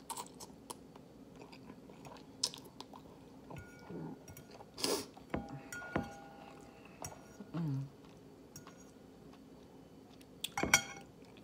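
Close-up eating sounds of spicy instant noodles: mouth chewing, with a few short, sharp rushes of air, the loudest near the end. Around the middle, a metal fork clinks several times against a ceramic bowl, with short ringing tones.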